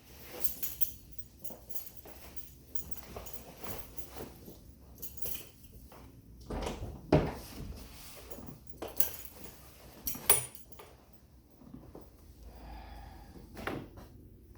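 Irregular clicks, knocks and rattles in a small room, with two louder knocks about seven and ten seconds in.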